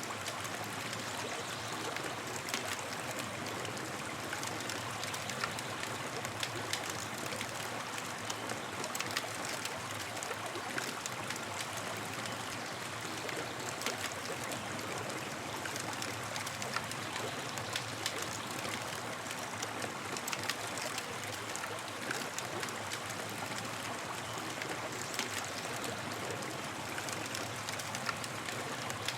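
Campfire burning: a steady hiss of flames with frequent small crackles and pops.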